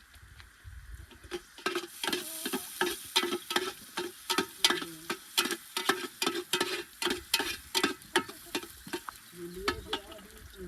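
A spoon stirring in a metal cooking pot, scraping and knocking against it in quick, even strokes, about three a second. The strokes start about a second and a half in and stop near the end.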